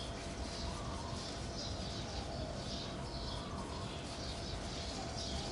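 Birds chirping in a quick repeated series of short high calls, over steady low background noise.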